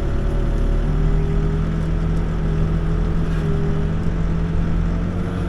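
Backhoe engine running steadily at an even speed, a constant drone with no change in pitch.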